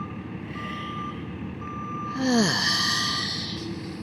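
Truck reversing alarm beeping steadily, about one beep a second, over the low rumble of the truck's engine as the claw truck backs up. About two seconds in, a loud hiss with a falling tone cuts across the beeps.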